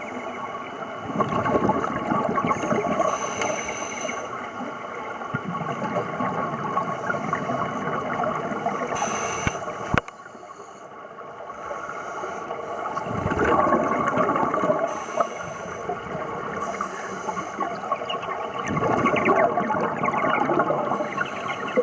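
Underwater sound of scuba divers breathing through their regulators, with surging bursts of exhaled bubbles rushing past, three times, about six seconds apart near the end.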